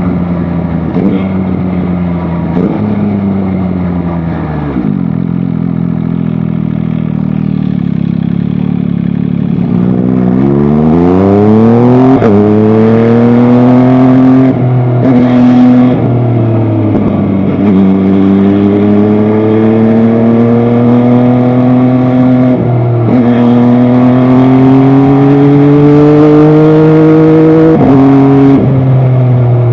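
MV Agusta Dragster 800 RR's inline three-cylinder engine, ridden. The revs fall and then hold low for several seconds. From about ten seconds in it accelerates through the gears, the pitch climbing and dropping back at each of four upshifts.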